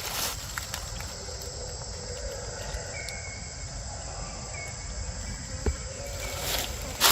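Insects trilling steadily in a single high continuous tone over a low rumble, with a sharp click about five and a half seconds in.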